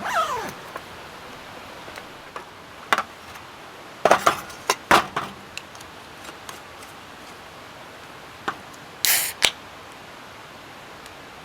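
A short squeal falling in pitch, then scattered sharp clicks and knocks of small objects being handled, with a cluster of them about four to five seconds in and a brief hissing rustle near the end.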